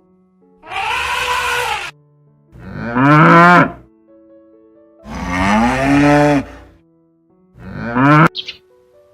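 Cow mooing four times in loud, drawn-out calls, each rising and then falling in pitch; the last is short.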